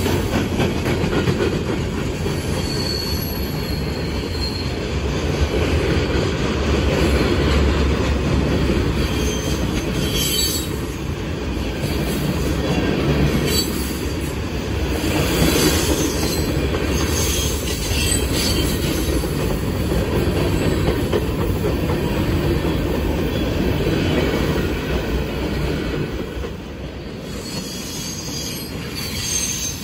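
Freight cars of a Union Pacific manifest train rolling past close by: a steady rumble and clatter of steel wheels on the rails, with a short high wheel squeal a few seconds in. The noise eases off a little near the end.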